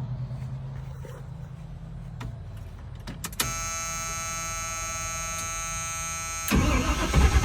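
An army truck's engine being cranked on the starter for a start attempt. A steady electronic tone sounds for about three seconds beforehand, and the loud rough cranking begins about a second before the end. The engine has a fuel-delivery problem that the owner puts down to clogged injectors.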